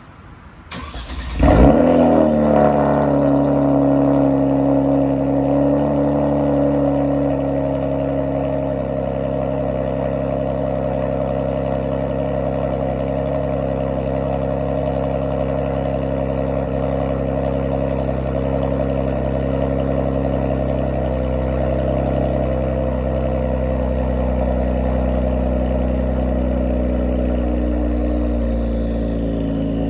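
Kia Stinger cold start, heard from behind at the exhaust tips: a brief crank about a second in, then the engine catches with a loud flare and settles into a steady idle.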